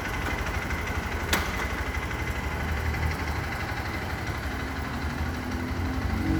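Motorcycle engine running steadily at low revs, close to idle, with one sharp click about a second and a half in.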